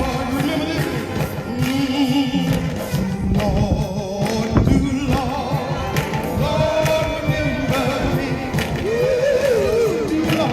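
A group of voices singing a hymn, with wind buffeting the microphone as a low rumble and frequent thumps.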